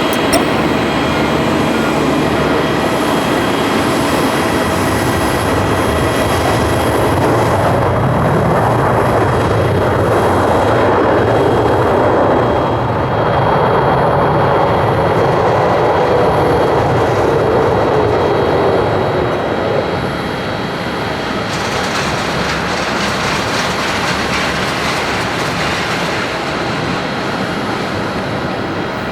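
Jet airliner engines running loud as the plane passes on the runway, with a whine that slowly falls in pitch about halfway through and the sound easing a little after that.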